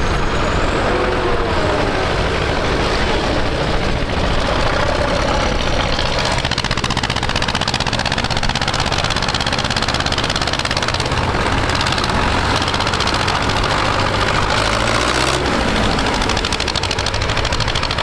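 Tractor engine running steadily, with no clear revving.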